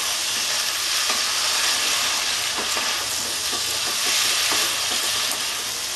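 Cauliflower, potato and peas sizzling in oil in a kadai while being stirred with a wooden spatula, the spatula knocking and scraping the pan at irregular intervals over a steady hiss. This is the dry-frying (koshano) stage of the spiced vegetables with cumin paste.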